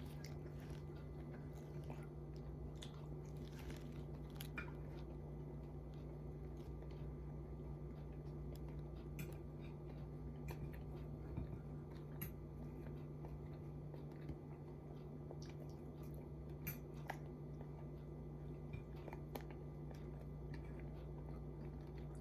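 Faint chewing and biting of crisp fried chicken, with scattered light clicks, over a steady low hum.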